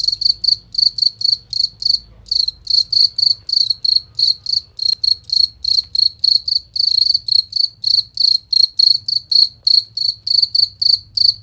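A cricket chirping in a steady, rapid rhythm, about four to five clear, high chirps a second, with one brief pause about two seconds in.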